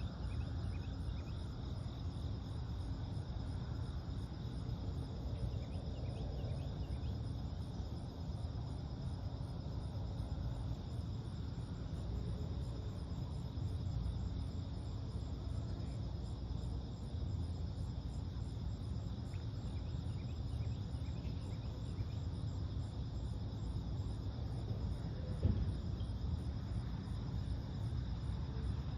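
Steady pre-dawn chorus of crickets and other insects, an evenly pulsing high trill, over a constant low rumble, with a few faint short calls from birds. A single brief bump sounds about 25 seconds in.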